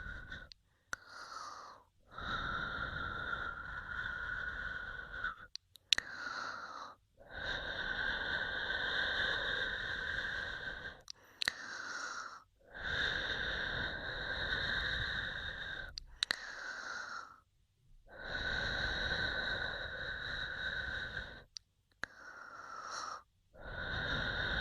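ASMR blowing of air close into a stereo microphone: long, steady breathy blows of about three seconds, alternating with shorter breaths of about a second, with brief pauses and a few sharp mouth clicks between them.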